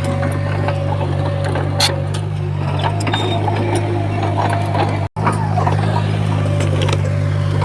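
Heavy earthmoving machinery with a diesel engine running steadily, with scattered clicks. The sound cuts out for an instant about five seconds in.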